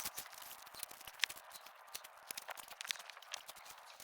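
Faint rustling and crackling of dead leaves being pulled up by hand from among rocks, many small crackles with a sharper one about a second in.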